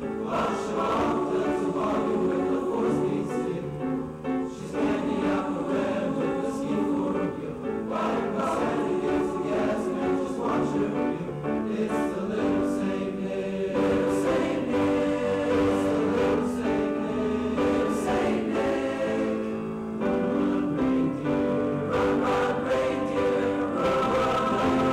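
Junior high school choir singing in several parts, holding and changing sustained chords, with crisp sung consonants audible.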